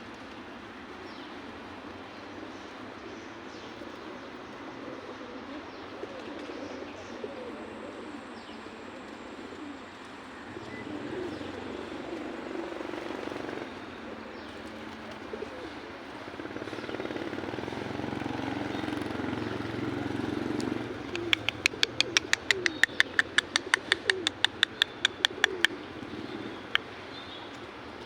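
Pigeons cooing, several low calls overlapping throughout and growing louder past the middle. About three-quarters through comes a fast run of sharp clicks, about five a second for some four seconds.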